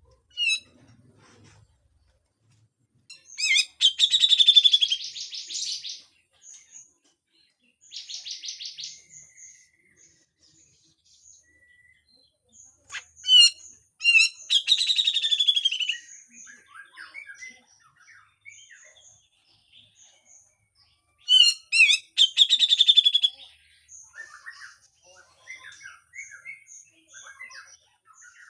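Grey-cheeked bulbul (cucak jenggot) singing. It gives three loud phrases, each opening with a few sharp notes that run into a harsh, buzzy rattle, with softer chirps and a quieter rattle in between.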